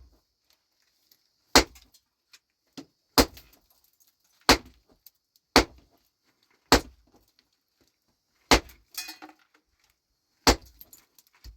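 Hammer striking rock: eight sharp, clinking blows about one to two seconds apart, with a short clatter of loose stone after one blow about three-quarters of the way through.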